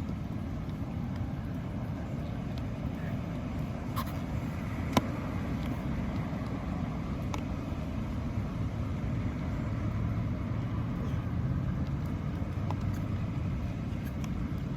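Steady low outdoor rumble with a few faint sharp ticks, the clearest about five seconds in.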